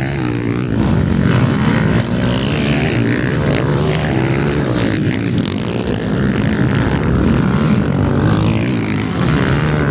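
Several motocross bike engines revving up and down together, their pitch rising and falling through gear changes as they race.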